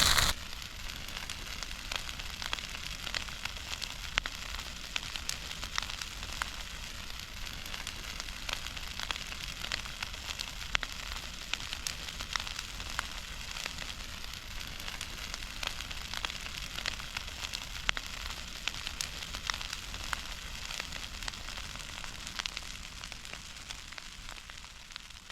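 Large campfire burning with a steady hiss and many sharp, irregular crackles and pops; it fades out near the end.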